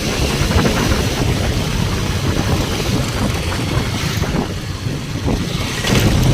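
Road vehicle running along a road, with wind rushing over the microphone, briefly easing about five seconds in.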